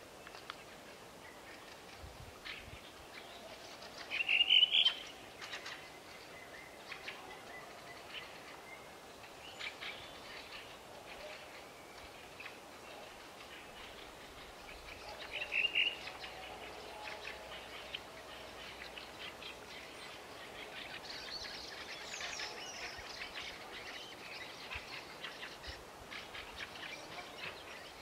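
Wild birds calling: two short, loud calls about four seconds and sixteen seconds in, and fainter high chirping in the second half.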